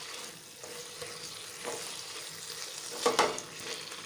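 Bottle gourd leaves and vegetables sizzling in mustard oil while a spatula stirs the freshly added coriander and mustard pastes through them. A few scrapes of the spatula stand out over the steady sizzle, the loudest a little past three seconds in.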